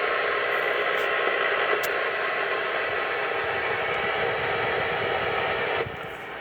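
Steady static hiss with the thin, narrow sound of a radio channel, dropping away shortly before the end.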